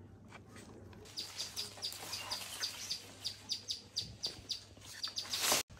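A bird chirping over and over in short, high notes, roughly four a second, starting about a second in.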